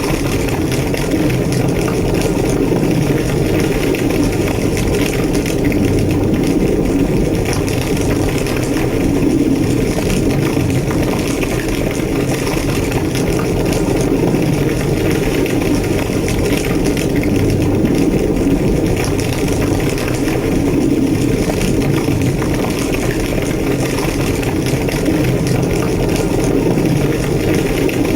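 A large fire in a burning building roaring steadily as a dense low rumble, with faint crackles scattered through it.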